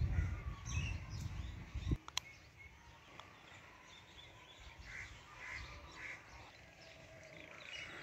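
Outdoor ambience: a low rumble on the microphone that cuts off about two seconds in with a sharp click, then birds calling a few times over quiet background.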